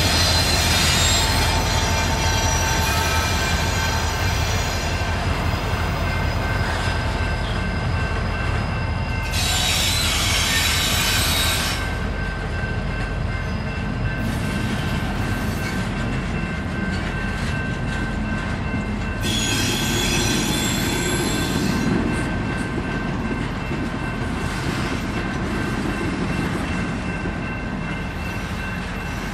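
Double-stack intermodal freight train rolling past, steel wheels rumbling on the rail with a steady high-pitched wheel squeal. Two louder hissing surges come about ten and twenty seconds in.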